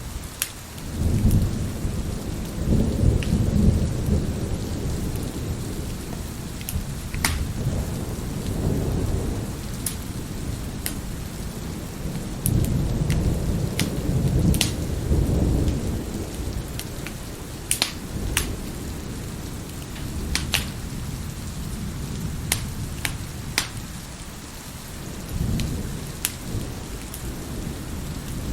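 Steady heavy rain with rolling thunder rumbling twice, the second rumble about twelve seconds in, and a fainter rumble near the end. Over it, a wood fire crackles with scattered sharp pops.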